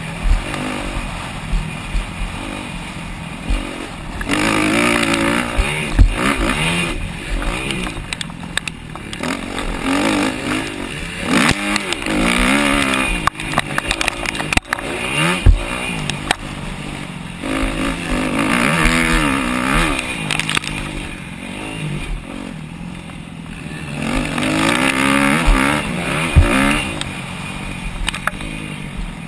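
250cc four-stroke single-cylinder motocross bike engine revving hard and backing off again and again as it is ridden around a track, the pitch climbing and dropping every few seconds, with a few sharp knocks along the way.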